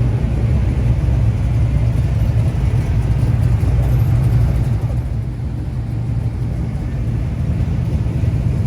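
Engines and exhausts of a line of cars driving slowly past, a steady low rumble.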